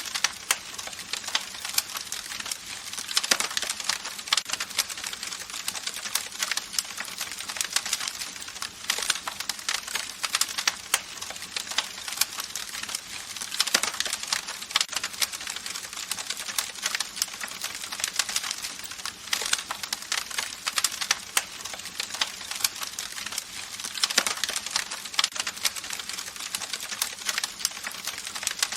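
Campfire crackling: dense sharp pops and snaps of burning wood over a steady hiss, growing busier every several seconds.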